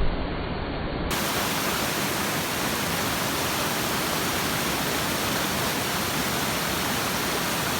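Steady rushing noise of a waterfall. About a second in it changes abruptly to a brighter, hissier sound with less low rumble.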